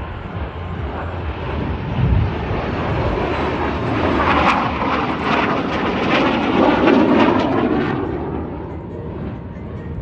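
Jet roar of a Midnight Hawks formation of BAE Hawk jet trainers flying past. The noise swells to its loudest from about four to seven seconds in, with a sweeping, phasing quality, then fades.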